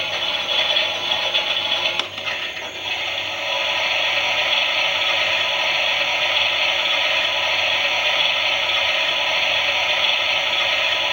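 Toy Klein Miele washing machine running its wash: the small motor whirring and the plastic drum rattling and scraping. About two seconds in there is a sharp click and a brief dip, then it runs steadily again.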